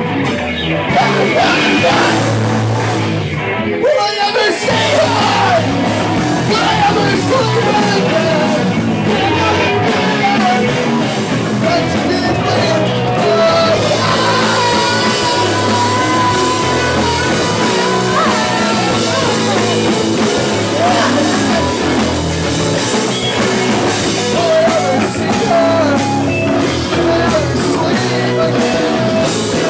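Live punk rock band playing loud, with electric guitars, bass and drums and some singing.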